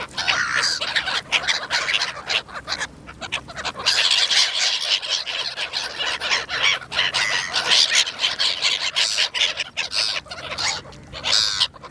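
A flock of gulls calling and squawking over one another, busy and continuous, most crowded from about a third of the way in, as they gather for food being thrown to them.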